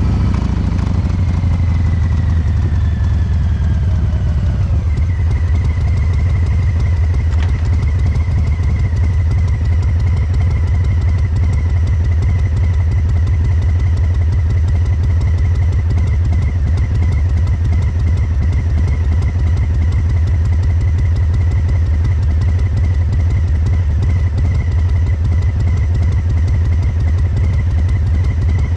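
2022 Harley-Davidson Breakout 114's Milwaukee-Eight 114 V-twin running through COBRA Neighbor Hater slip-on mufflers, its fuel injection tuned for a three-beat, loping rhythm. The pitch drops over the first few seconds, then the engine runs steadily with a faint steady whine above it.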